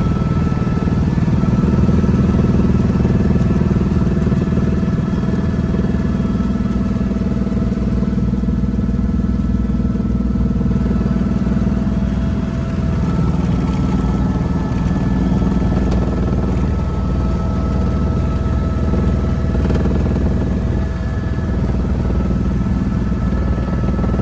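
Helicopter running steadily: a continuous low drone with steady high whining tones over it.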